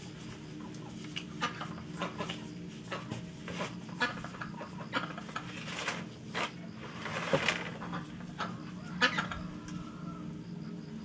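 Chickens clucking, with scattered light clicks and knocks over a steady low hum.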